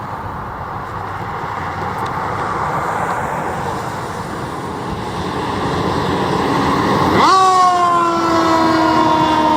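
Fire engine driving past on a call with engine and road noise building. About seven seconds in, it sounds a loud pitched warning blare that sweeps up sharply and then slides slowly down in pitch.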